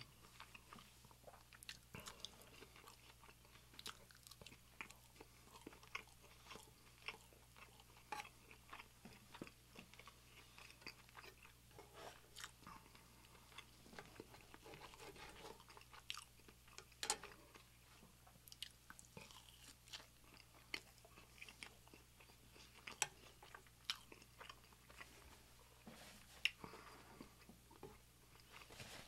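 Close-miked chewing and biting of breakfast food, wet and crunchy, with scattered sharp clicks. Partway through, a knife and fork clink and scrape as food is cut on a wooden board.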